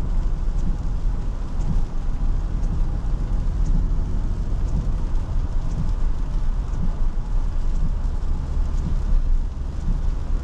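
Cabin noise inside a 2023 Toyota Tundra 1794 pickup driving on wet roads: a steady low road and tyre rumble with a hiss over it, and a faint light tick about once a second.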